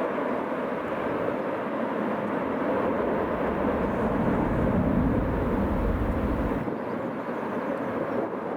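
A fixed-wing aircraft's engines rush steadily in strong wind. A deep rumble comes in about four seconds in and cuts off suddenly a couple of seconds later.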